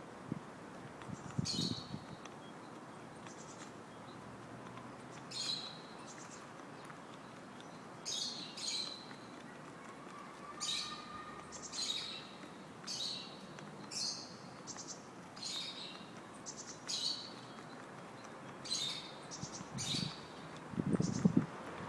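A small bird chirping over and over, short high calls about a second apart. A few low thumps come near the end.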